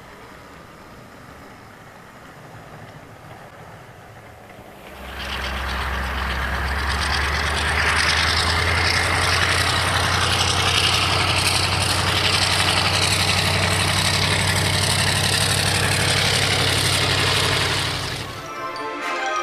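Class 35 Hymek diesel locomotive engine sound, coming in about five seconds in and running steadily with a deep engine note and a broad hiss, then dropping away near the end. Before it there is only a faint hiss.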